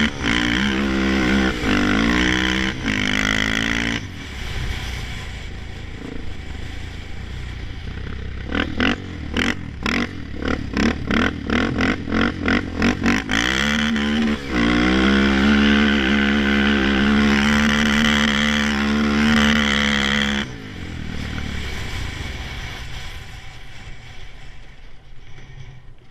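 Honda TRX400EX ATV's single-cylinder engine held at high revs on the rev limiter, then a run of quick throttle blips, about three a second, then pinned at high revs again for about six seconds before the throttle is cut suddenly and it drops to a low, fading idle.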